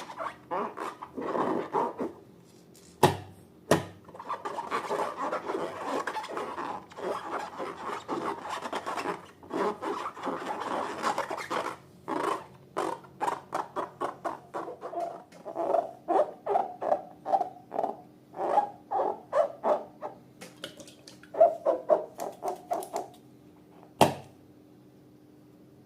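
Slime being worked and squished by hand: a continuous run of short rubbing and scraping strokes, more clipped and quicker in the second half, with a few sharp clicks.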